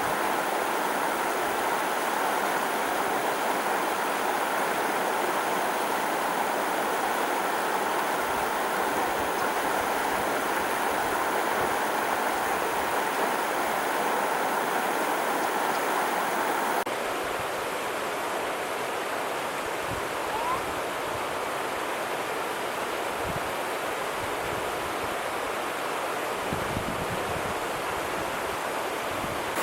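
Running water, a steady rushing. About 17 seconds in it cuts to a slightly quieter stretch of running water.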